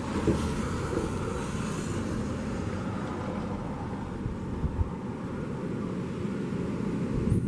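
Steady low rumble of a vehicle, with a couple of brief knocks.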